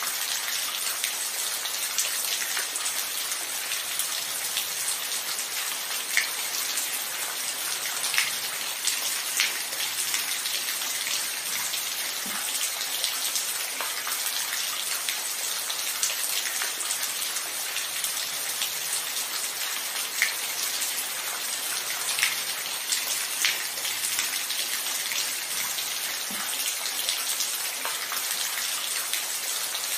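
Steady rain falling, an even hiss with louder single drops ticking through it every second or two. No thunder.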